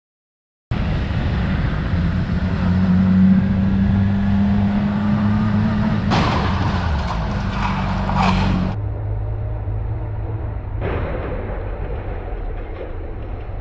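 Motor vehicle engine and road noise, starting suddenly about a second in, with a steady low engine hum. The sound changes abruptly a few times along the way.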